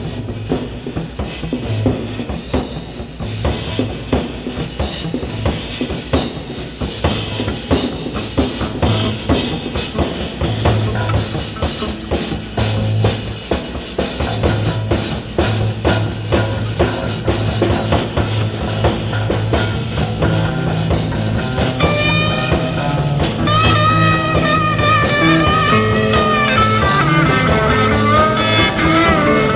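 Live psychedelic rock band playing an instrumental jam: drum kit and bass guitar keep a driving groove, and an electric lead guitar comes in about two-thirds of the way through with bending, wavering lines.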